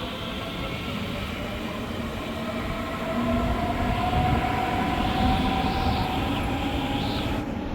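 A train running through the station: a steady whine that slowly rises in pitch over the rumble of the wheels, growing a little louder about three seconds in.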